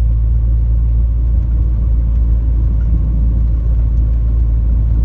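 Steady low rumble of a 1998 Honda Civic driving at a constant speed with the engine near 2,000 RPM, the range where this engine hesitates and misfires because of clogged EGR ports.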